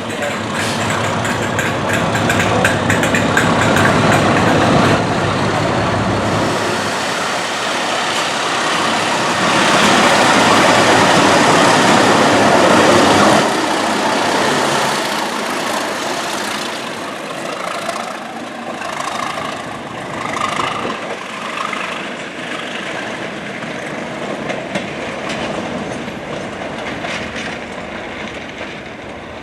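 A diesel-hauled test train, led by a Class 37 locomotive, passing through the station: a loud engine and wheel rumble that builds to its loudest in the middle, then fades as the train draws away, with a short run of evenly spaced wheel clicks over rail joints as it goes.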